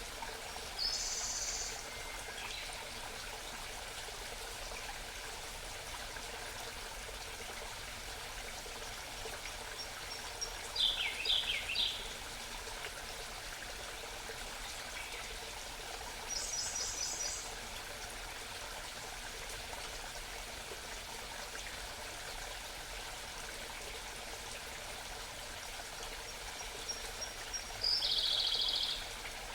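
A small mountain stream babbling steadily, with a songbird's short, high, rapid trilled phrases breaking in four times.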